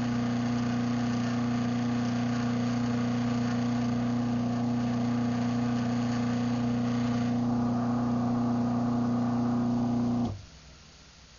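Craftsman half-horsepower garage door opener running, its electric motor giving a steady hum. The motor cuts off abruptly about ten seconds in.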